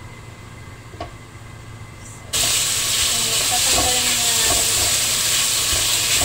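Chicken going into hot oil in a non-stick frying pan: a sudden loud sizzle starts a little over two seconds in and carries on as a steady frying hiss while it is stirred with a spatula.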